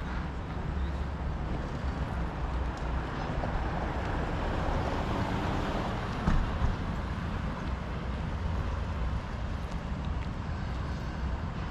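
Steady road traffic noise with a low rumble; a vehicle passes by, swelling and fading around the middle, with a brief louder bump just after its peak.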